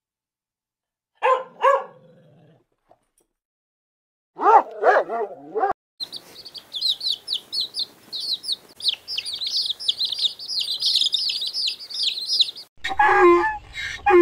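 Animal calls in a string of separate clips: a few short pitched calls in the first half, then a run of rapid high-pitched chirps lasting about seven seconds, then lower calls near the end.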